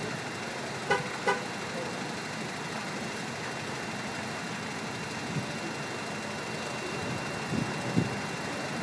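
High-mileage 1996 Acura Integra RS four-cylinder engine idling steadily, heard from the open engine bay, with a friction-reducing additive freshly added to its overdue oil. Two short chirps sound about a second in, and a few soft thumps near the end.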